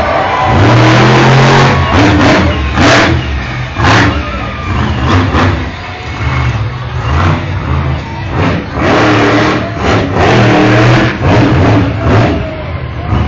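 Monster truck engine revving hard in repeated surges, loud and rising and falling every second or so.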